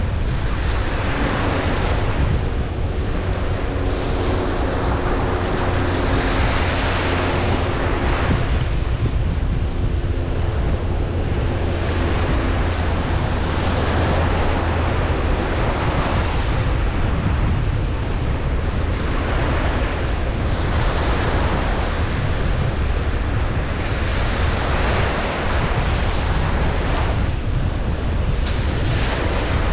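Ocean waves breaking and washing up a beach: a continuous surf noise that swells with each wave every few seconds over a steady low rumble.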